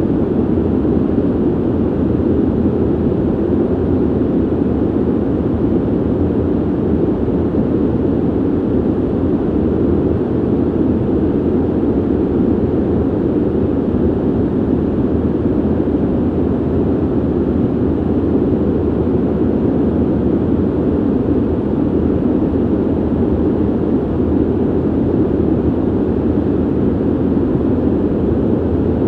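Ventilation noise: a steady, unchanging low rush of air, deep and dull with little hiss.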